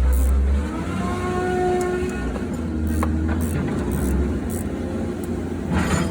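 Diesel truck engine running on a freshly replaced turbocharger, loud for the first moment and then easing down to a steadier run.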